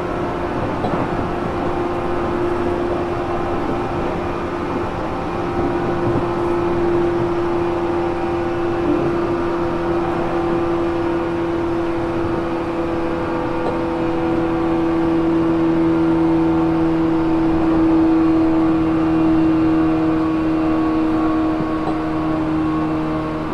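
Electric train running, heard inside a JR Kyushu 415 series 1500 subseries motor car: a steady whine from the drive over wheel-on-rail rumble, swelling a little past the middle and easing slightly in pitch near the end. The recordist labels this car an 'odd-noise' car.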